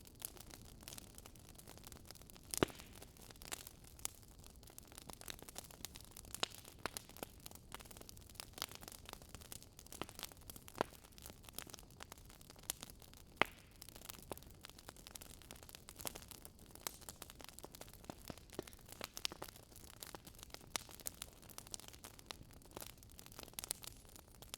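Wood fire crackling softly: irregular sharp pops and snaps over a faint hiss, with two louder pops, one a few seconds in and one about halfway through.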